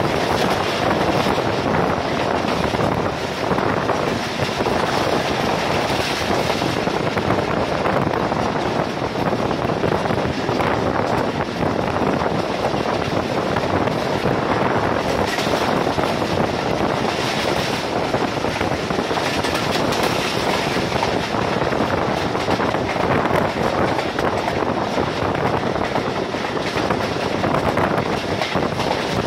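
Passenger train coach running at speed: a steady rumble and rattle of wheels on the rails, with wind buffeting the microphone held out of the window.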